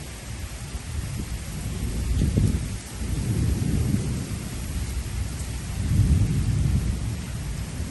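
Rolling thunder over steady heavy rain from a strong thunderstorm, the low rumble swelling about two seconds in and again around six seconds.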